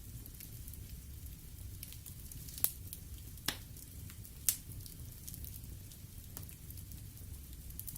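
Wood fire crackling in a fireplace: a steady low rumble of the flames with scattered faint crackles, and three sharp pops of burning wood between about two and a half and four and a half seconds in.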